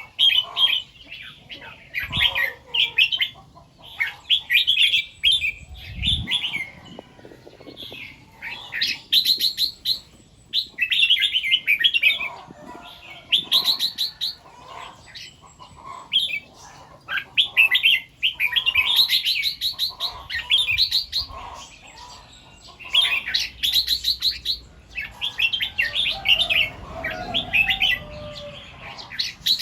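Red-whiskered bulbul singing: short, quick warbled phrases repeated every second or two. There is a brief low thump about two seconds in and another about six seconds in.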